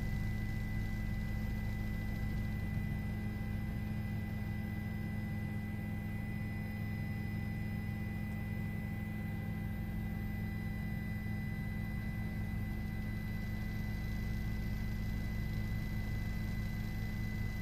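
Steady drone of a news helicopter heard from inside, with a low hum and a thin, high steady whine above it.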